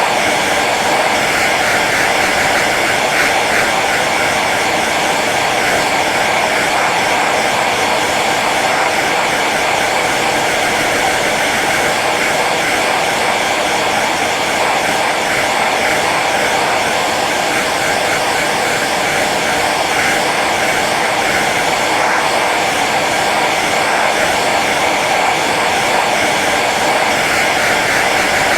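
Hair dryer running steadily on its low setting: an even blowing whir with a faint motor hum, unchanging throughout.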